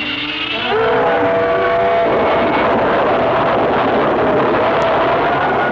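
Cartoon rocket blast-off sound effect: a few held and rising tones, then about two seconds in a loud, steady rushing roar of the rocket engine takes over and holds.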